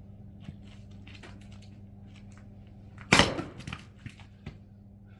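An axe strikes a ginkgo log once with a loud, sharp crack about three seconds in, followed by a few smaller wooden knocks.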